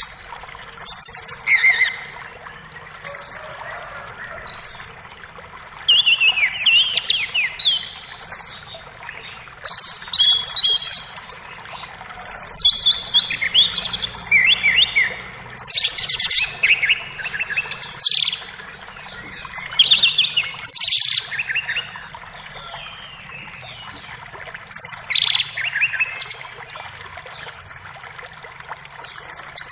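Forest birds singing and chirping, with short high calls and quick falling trills repeating every second or two. A creek runs faintly and steadily underneath.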